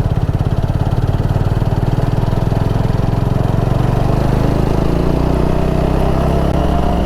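Motorcycle engine running steadily under load up a steep climb, its note rising slightly about two-thirds of the way through.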